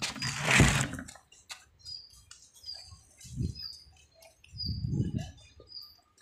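A small bird chirping: short, high chirps repeated about every half second. A loud burst of rustling comes in the first second, and there are a couple of low rumbles on the microphone in between.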